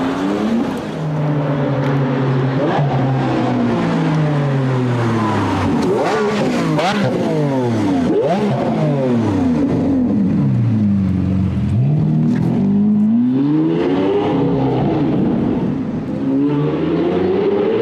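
Sports car engine and exhaust revving: the pitch holds steady for a few seconds, then falls and climbs again in several sweeps.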